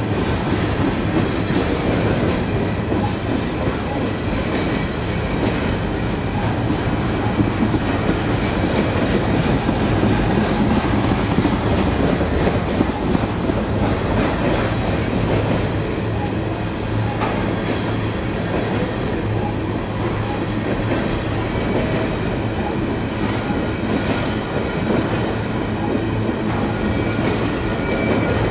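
CSX freight train of flatcars carrying orange containers rolling steadily past at close range: a loud, even rumble of steel wheels on the rails, with faint thin high squeal tones above it.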